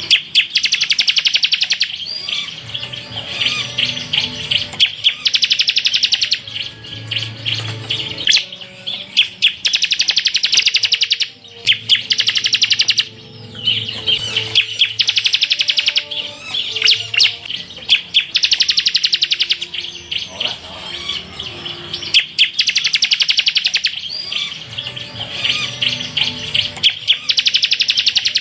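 Bar-winged prinia (ciblek) singing in the 'tembakan' style: fast, high, rattling trills delivered in bursts of a second or two with short breaks, over and over.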